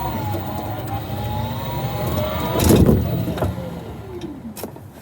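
Cybertruck's electric drive whining as it rides along over road rumble. The whine falls, rises again, then falls away as it slows toward a stop, with a loud jolt from a bump about halfway through.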